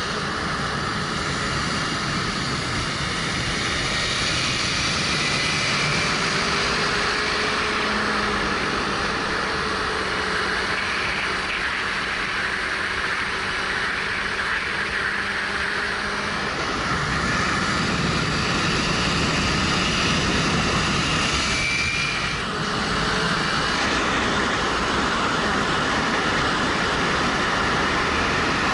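Wind rushing over a helmet-mounted camera while the Suzuki GW250's 248 cc parallel-twin engine runs at road speed underneath. The engine note shifts slightly with the revs, and the whole sound gets a little louder about two-thirds of the way through.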